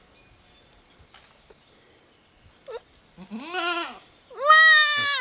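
Goat bleating: a short faint cry, then two wavering bleats, the second louder and longer.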